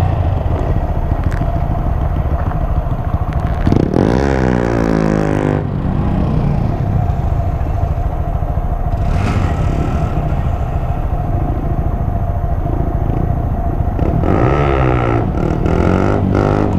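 Honda Grom's single-cylinder engine idling steadily, while a small motorcycle's engine revs up and falls away twice, about four seconds in and again near the end.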